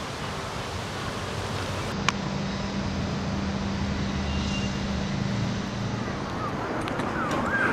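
Steady wind noise with a click about two seconds in. After the click a low, steady engine hum joins the wind for a few seconds.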